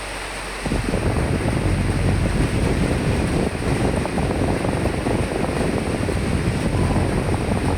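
Steady rain hiss, joined about half a second in by a strong gust of wind that buffets with a low rumble, then drops away right at the end.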